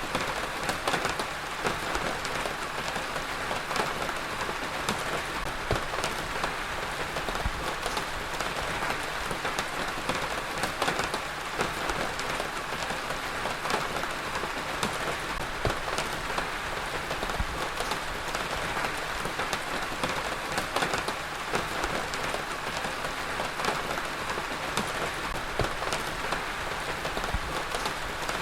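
Heavy rain falling steadily, a dense even hiss with many close drops ticking sharply on a hard surface.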